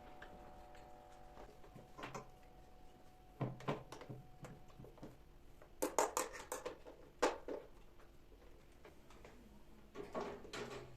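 Light knocks and clatters of objects being handled, with a quick cluster of sharp taps about six seconds in and another group near the end.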